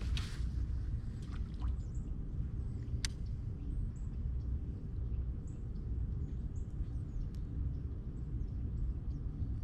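Small birds chirping in many short, high calls over a steady low rumble, with a sharp click at the start and another about three seconds in.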